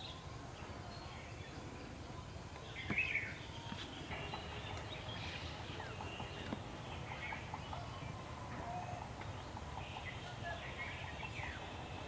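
Wild birds giving short, scattered chirps, the loudest about three seconds in, over a steady low outdoor rumble.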